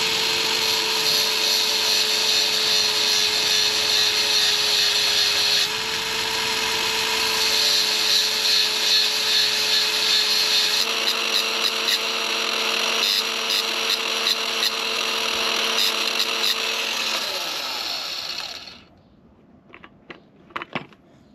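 An electric power tool motor running at a steady speed with a loud, hissing grinding noise, as a tool is ground down to fit. It is switched off and winds down about 18 seconds in, followed by a few light clicks.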